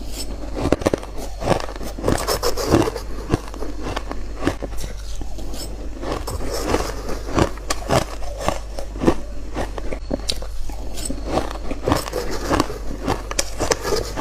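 Close-up crunching of shaved and hard ice being bitten: crisp, irregular crunches, several a second, one after another.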